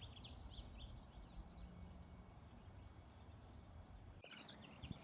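Faint chirping of small birds: many short, high chirps over a low background rumble, all cutting off about four seconds in.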